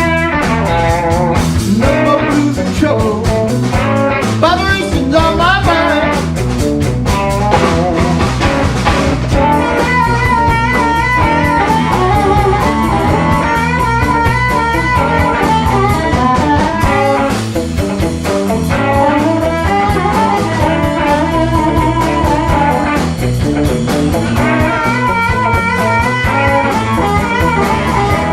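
Blues band playing live: guitar and drum kit over a steady groove, with bending notes in the first several seconds and long held high notes after that.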